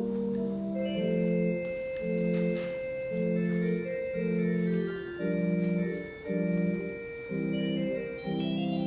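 Organ playing a slow piece in held chords, with the notes changing about once a second.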